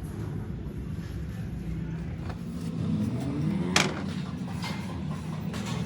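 A motor running steadily, rising in pitch a little past halfway, with one sharp metallic click just after the rise.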